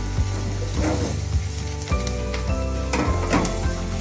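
Chicken pieces frying with onion and garlic in a nonstick pan, sizzling steadily, while a wooden spatula stirs and knocks against the pan several times. Background music with held bass notes runs underneath.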